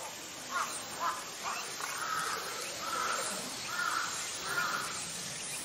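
Bird calls: a few short notes, then four longer calls in a row, each less than a second apart.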